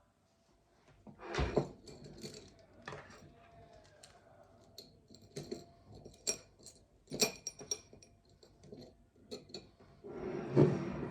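Small hard objects being handled and set down: a string of sharp clicks and clinks, several with a short metallic or glassy ring, and a louder rustle and thump about a second and a half in and again near the end.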